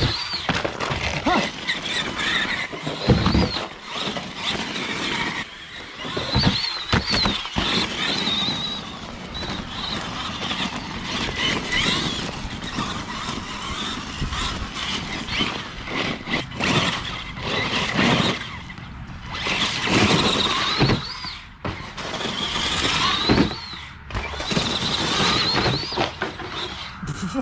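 Axial SMT10 Grave Digger RC monster truck driving on wet gravel: its electric motor and drivetrain whine, rising and falling in pitch over and over with the throttle, with gravel crunching and scattered knocks from the truck's bumps and landings.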